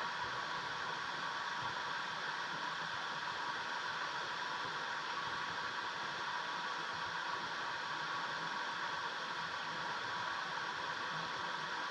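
Steady rushing water of a mountain stream, an even hiss with no breaks.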